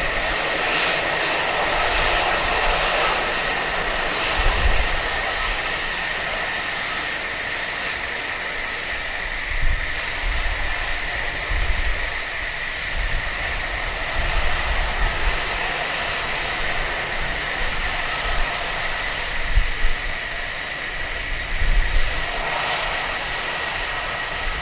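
Jet engines of a Qatar cargo plane running steadily with a constant high whine, broken now and then by low thumps.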